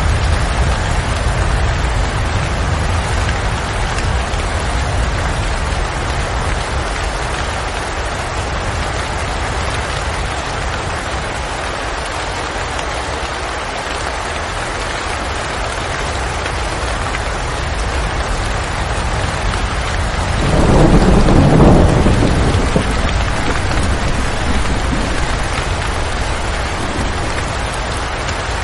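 Steady rain falling, with a brief low rumble of thunder about 20 seconds in.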